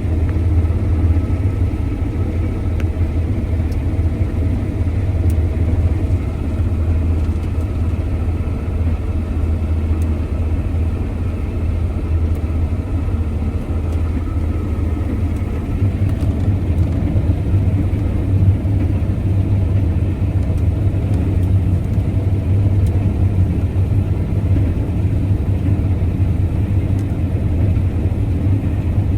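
Combine harvester running steadily under load with a deep, even drone while cutting wheat.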